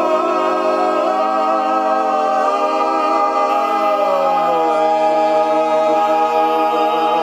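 Barbershop quartet singing a cappella, holding the long final chord of the song, with the low voice sliding down partway through; the chord is cut off together just after seven seconds.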